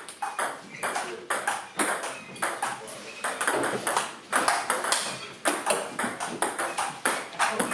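Table tennis ball clicking off bats and table in a rally, sharp pings coming irregularly about two to three times a second.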